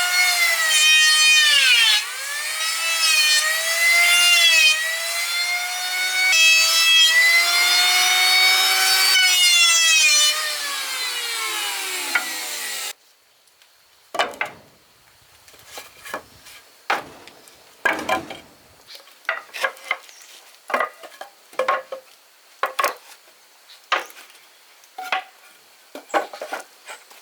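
Power saw cutting wood: a loud whine whose pitch sags and recovers again and again as the blade bites. It stops suddenly about 13 seconds in and is followed by scattered sharp knocks and clicks of wood being handled.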